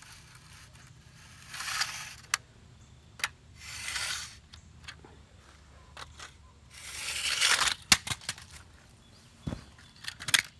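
Radio-controlled truck's tyres scraping over rough ground in three short runs of about a second each, with sharp clicks and knocks in between.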